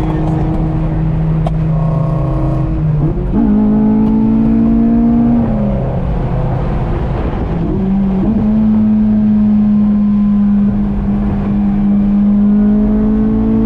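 Car engine revving up, dropping back in pitch about five and a half seconds in, then rising again and holding a steady high note until it falls back near the end.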